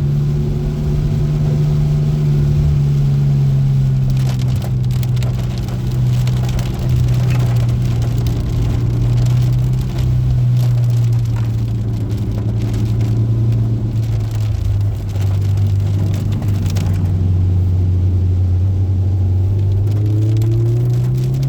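Car engine droning inside the cabin while driving. Its pitch sags slowly through most of the stretch and climbs again near the end, with rain and road noise crackling against the car.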